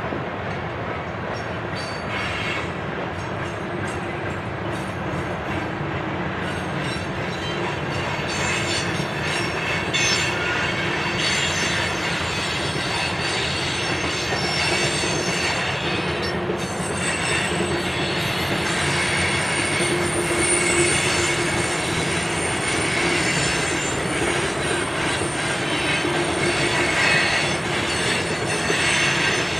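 Covered hopper cars of a BNSF freight train rolling past at steady speed, a continuous rumble of steel wheels on rail. Thin, high wheel squeal comes and goes over it, stronger in the second half.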